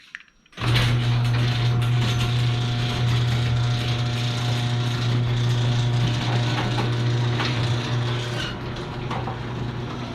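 Garage door opener running: a steady motor hum with a rattling, ratchety clatter from the drive and the moving door, starting abruptly about half a second in.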